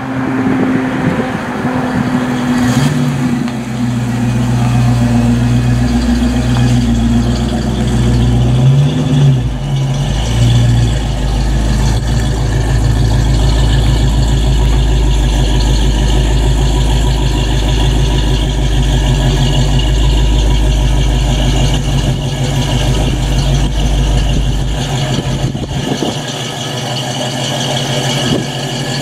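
1990 Ford Mustang GT's 5.0-litre V8 running: its engine note rises and falls as the car drives, then settles into a steady idle for the rest.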